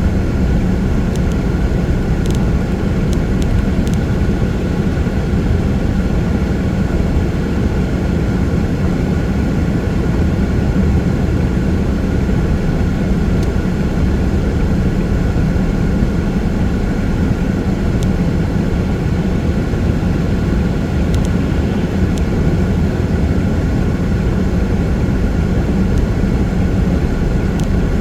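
A car driving at freeway speed on a rain-wet road: steady, loud road noise of tyres and engine, with a deep rumble and a faint steady hum, and a few faint ticks.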